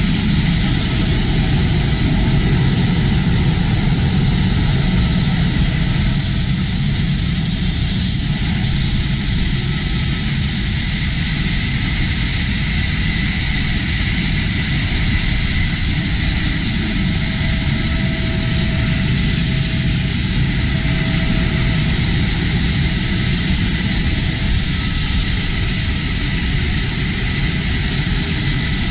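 F-16 fighter jet engine running steadily: a loud, even rumble with a strong hiss above it. It holds level throughout, with no clear rise or fall in pitch.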